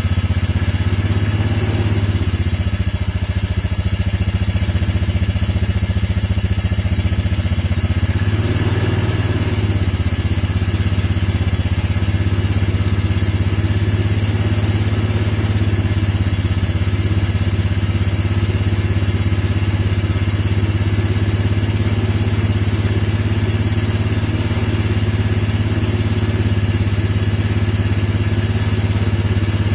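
Motorcycle engine idling steadily while it warms up after a cold start, its note changing briefly about eight seconds in.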